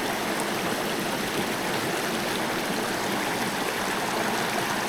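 Small mountain stream rushing and splashing over rocks, a steady even sound of running water.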